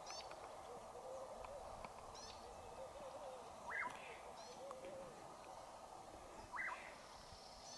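Faint calls of several wild birds: a low wavering call repeats through the first half, with a few brief high chirps and two louder short calls, about four and six and a half seconds in.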